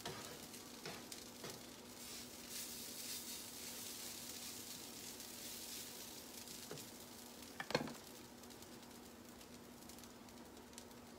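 Faint sizzling and crackling of hash browns frying, fading toward the end, with one sharp clack about two-thirds of the way through. A low steady hum runs underneath.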